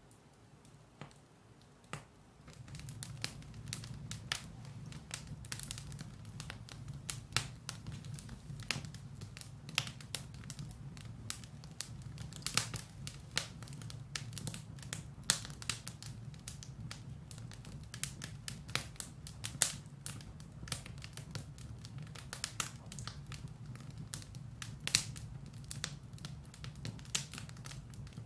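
Firewood burning in a fireplace: dense, irregular crackles and pops over a steady low rumble of the flames, growing louder about two and a half seconds in.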